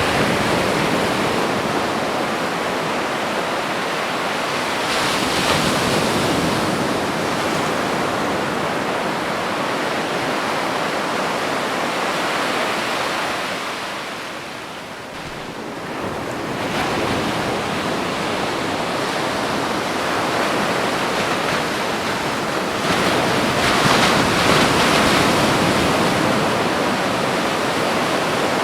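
Ocean surf breaking and washing up a beach: a continuous rush of water that swells and ebbs. It drops away briefly about halfway through, then builds again, with a stronger surge near the end.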